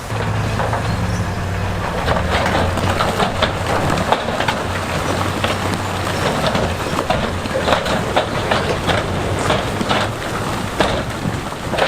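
Large stones clattering and knocking against each other and on steel, a dense run of rock impacts, over a heavy diesel engine running, the engine plainest in the first two seconds.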